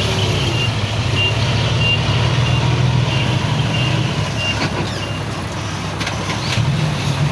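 Reversing alarm on a heavy diesel machine, beeping about one and a half times a second over a steady low engine rumble. The beeping stops about five seconds in, and a few sharp metallic clicks follow near the end.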